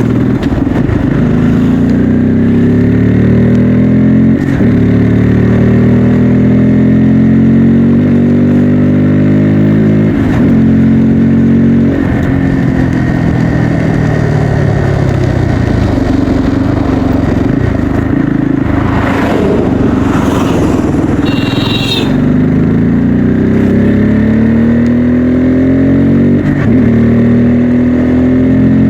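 Bajaj Pulsar N250's single-cylinder engine under way, rising in pitch through the gears with a short break at each shift. It slows and falls in pitch around the middle, then accelerates again with further shifts. A brief high beep comes about two-thirds of the way in.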